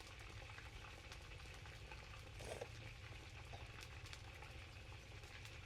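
Faint crackling and bubbling from a pot cooking, over a steady low hum, with a brief voice about two and a half seconds in.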